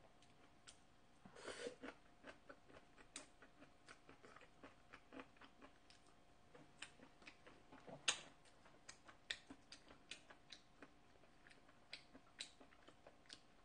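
Faint close-up chewing: a scatter of small wet mouth clicks and smacks, with one louder click about eight seconds in.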